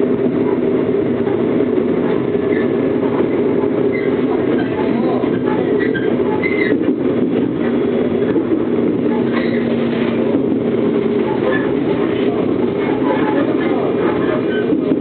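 Seoul Metro GTO-VVVF subway train running between stations, a steady rumble of wheels and traction equipment heard from on board. A faint steady tone rises out of it from about eight to eleven seconds in.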